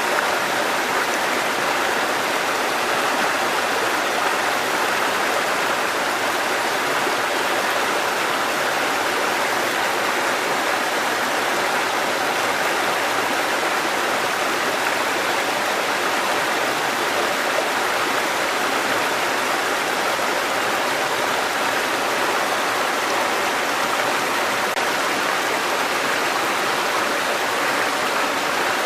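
Mountain stream water cascading over rocks in a steady, unbroken rush.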